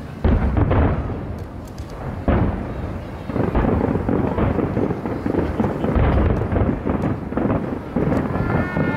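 Aerial fireworks going off: a series of loud booming bursts, a fresh one every two seconds or so, each trailing off into dense crackling.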